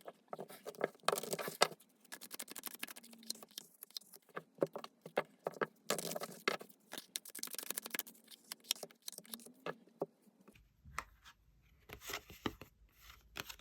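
Tarot cards being shuffled and handled: dense papery rustling, flicking and sliding of cards, thinning to scattered clicks about ten seconds in, when a low hum comes in.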